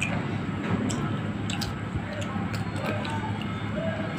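Close-up eating sounds: sharp, irregular crunches and wet mouth smacks as raw green mango dipped in red chilli paste is bitten and chewed, over a steady low hum.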